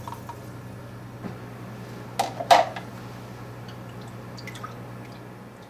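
Beef consommé and port being poured into a saucepan over a cooked butter-and-flour roux, with two louder splashes or knocks about two seconds in, over a steady low hum.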